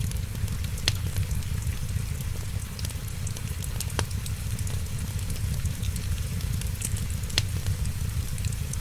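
Wood fire crackling in a fireplace, with three sharp pops about a second, four seconds and seven and a half seconds in, over a steady low rumble and the fine hiss of rain.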